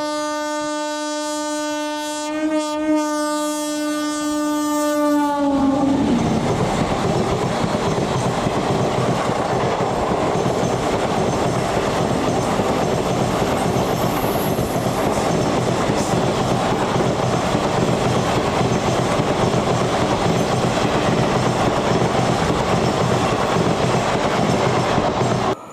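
High-speed express train's horn sounding one long steady blast that drops in pitch as it ends about five seconds in. Then the train passes at speed in a loud, continuous rush of wheel and rail noise with a clatter of wheels over the rail joints.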